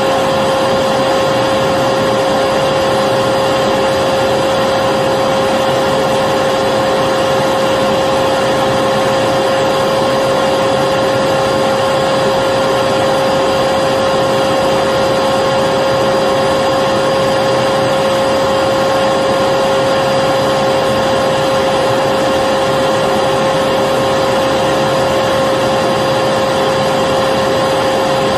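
Electric vacuum cleaner running continuously, a steady whine with a strong single tone over an even rushing noise that never changes.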